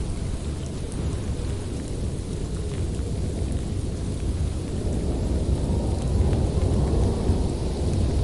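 Winter wind blowing in a steady low rumbling rush, swelling slightly about halfway through.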